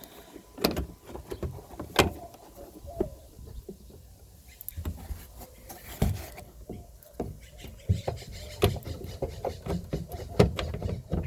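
Hands handling plastic parts of a car taillight assembly: scattered clicks and knocks at irregular intervals, the sharpest about two seconds in, at six seconds and near the end.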